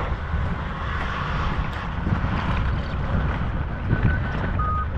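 Heavy machinery engine rumbling steadily, with wind buffeting the microphone. A backup alarm starts beeping about four seconds in.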